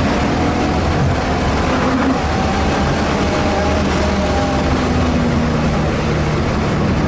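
Car engine running under load with tyre and wind noise, heard inside the cabin during a lap of a race track; the engine note shifts slightly in pitch as speed changes.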